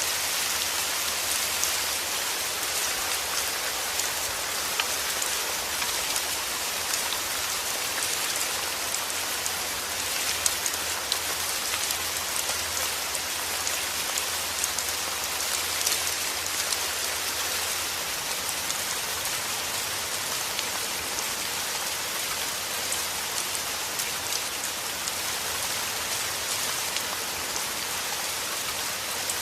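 Steady heavy rain, a dense hiss scattered with the taps of individual drops.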